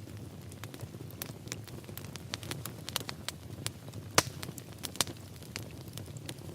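Wood fire in a fireplace crackling, with irregular sharp pops over a steady low rush of flame; the loudest pop comes a little after the middle.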